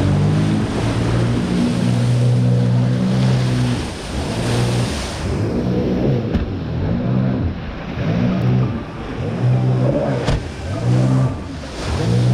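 Jet ski engine running hard, the throttle let off and opened again several times so the pitch dips and climbs back, over a rushing hiss.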